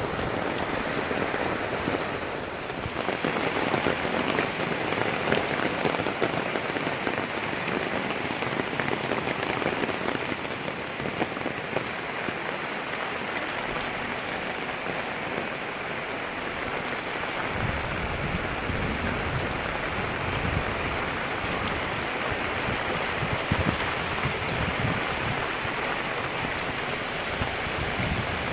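Heavy rain falling steadily, with a low rumble in the second half.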